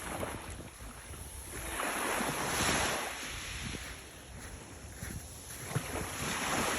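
Small sea waves washing in on the shore, swelling and fading twice, with some wind rumbling on the microphone.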